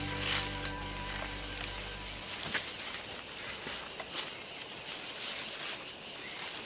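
A steady, high-pitched chorus of insects buzzing, with a few faint clicks. Low held tones of background music die away about two seconds in.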